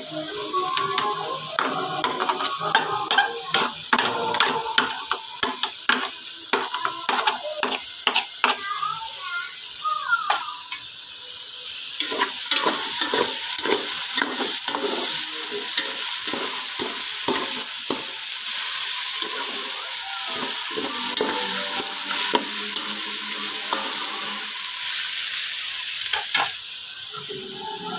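Egg frying in oil in an aluminium pan, sizzling, with a spatula scraping and clicking against the pan as it is stirred. About twelve seconds in the sizzling grows louder and steadier as diced vegetables sauté in a pot, still being stirred.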